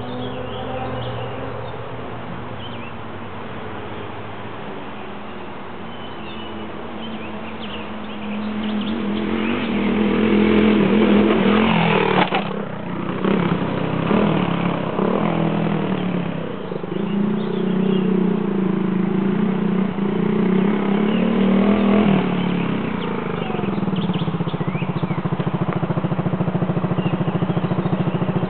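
Single-cylinder dual-sport motorcycle engines revving up and down as the bikes ride laps. The engines get louder about a third of the way in, cut off abruptly near the middle, then pick up again.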